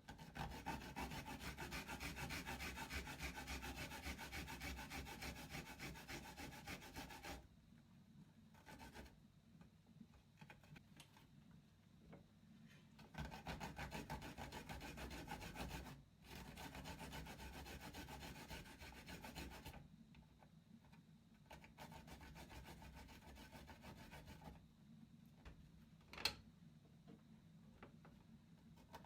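A garlic clove being grated, rubbed back and forth on a grater in quick scraping strokes. It comes in spells, loudest at the start and again about halfway through, with softer grating between. A single sharp click near the end.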